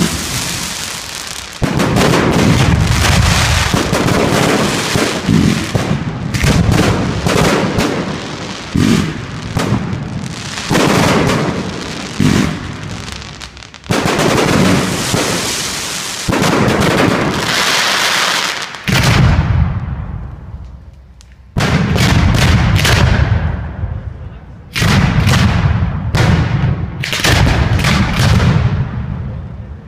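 Professional fireworks display: loud aerial firework bursts go off one after another every second or two, with crackling and fizzing between the bangs. There is a short lull about twenty seconds in, then the bangs resume.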